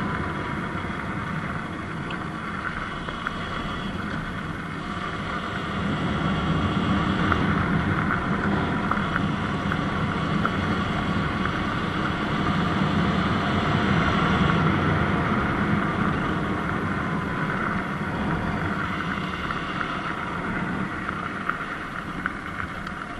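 Sur-Ron Light Bee electric dirt bike under way: wind rushing over the microphone over a faint motor whine. It grows louder about six seconds in and eases off toward the end.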